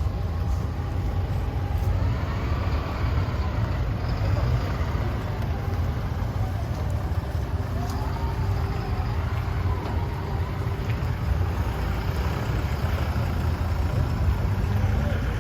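Motor vehicle engines running with a steady low rumble, without sharp revving.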